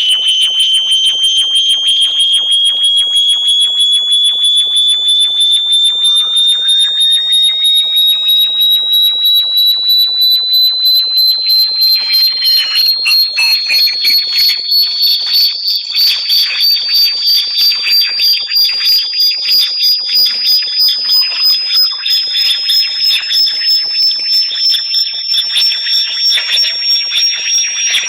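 Electronic high-pitched tone played as a bat-repellent sound: a piercing whistle that slowly rises in pitch throughout, with fainter higher tones, occasional sweeping chirps, and a fast, even pulsing.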